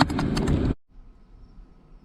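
Wind buffeting the microphone with a few clicks, cutting off abruptly under a second in, leaving only a faint background.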